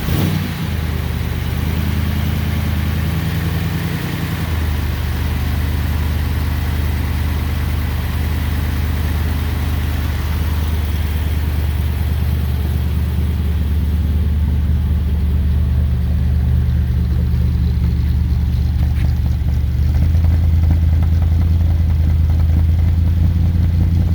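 Triumph Stag's 3.0-litre V8 idling steadily just after a cold start. The engine note shifts about four seconds in and again, a little louder, about twenty seconds in.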